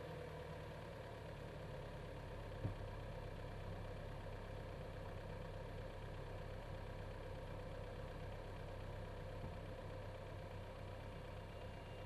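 BMW B48 2.0-litre turbocharged four-cylinder idling steadily, heard from inside the engine bay. One short click sounds about two and a half seconds in.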